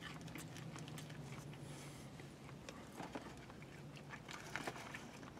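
A person chewing food, with scattered soft clicking and crunching mouth sounds over a faint steady low hum.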